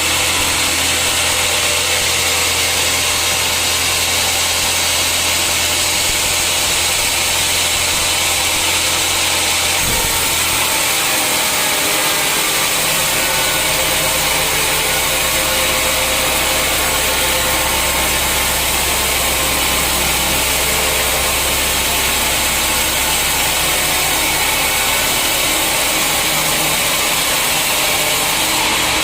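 Sawmill saw and its drive motor running steadily: a loud, even mechanical noise under a low hum, the hum dropping slightly in pitch about ten to twelve seconds in.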